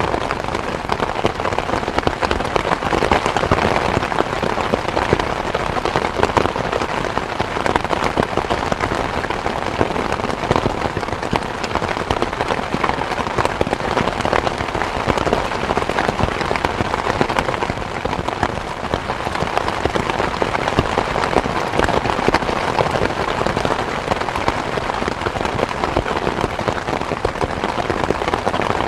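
Steady rain falling: an even, dense hiss full of small drop ticks, with no pauses.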